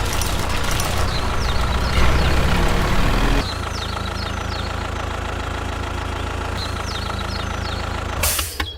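Engine of a mini construction vehicle running steadily. About three and a half seconds in it turns quieter and more even, and a brief hiss comes just before the end.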